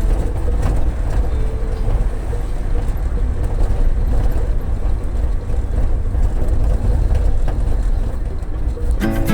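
Steady low rumble of a moving road vehicle in traffic. Guitar music comes in near the end.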